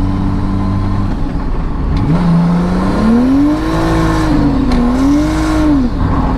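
Nissan Cefiro A31 engine heard from inside the cabin, running steadily, then revving up about two seconds in, wavering and falling back near the end. The revs climb while the car barely gains speed, the sign of a slipping clutch, which the driver says needs replacing.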